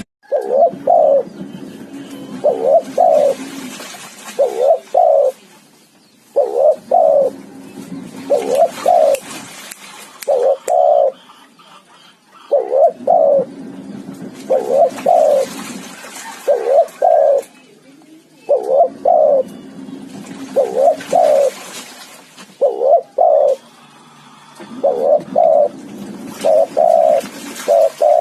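Dove cooing over and over in short phrases of two quick paired notes, about one phrase every two seconds, with a couple of brief pauses.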